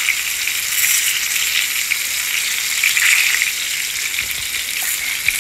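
Salmon steaks sizzling in oil in a frying pan: a steady hiss, with a few faint taps of a wooden spatula as the steaks are turned.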